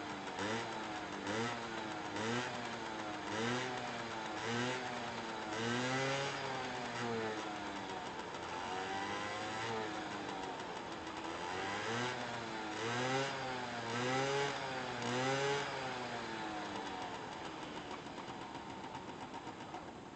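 Yamaha BW's 50 scooter with a swapped-in 100 cc two-stroke engine running. The throttle is blipped over and over, so the revs rise and fall, first in short quick blips and then in longer revs. Near the end the revs settle and the sound fades away.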